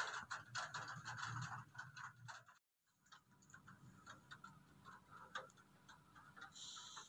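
Scattered raindrops ticking irregularly on a hard surface, faint. The sound drops out briefly about two and a half seconds in, then the ticking goes on more softly.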